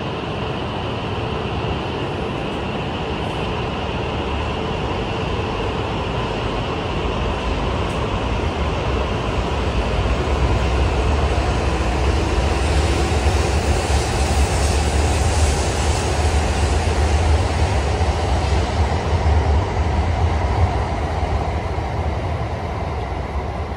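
E5 series Shinkansen bullet train pulling out of the station and gathering speed along the platform. A steady hum grows into a deep, rushing rumble as the cars run past, loudest in the second half, then eases slightly near the end as the train draws away.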